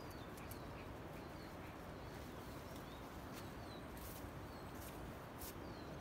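Short, falling bird chirps, one every second or so, over a steady rushing hiss, with a couple of faint sharp clicks about four and five and a half seconds in.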